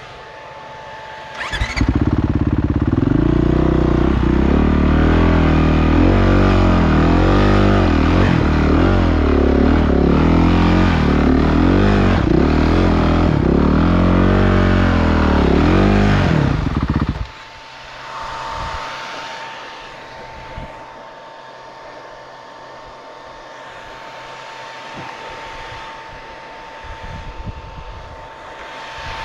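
Motocross motorcycle engines revving up and down close by, their pitch rising and falling, for about fifteen seconds. The sound then cuts off abruptly to a much quieter background of distant engine noise.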